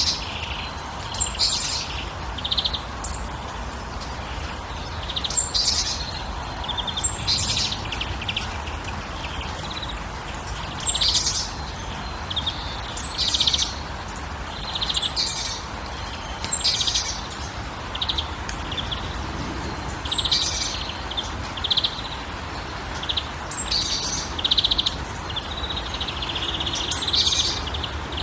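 Songbirds calling: short, high chirping phrases repeated every second or two, over a low steady rumble.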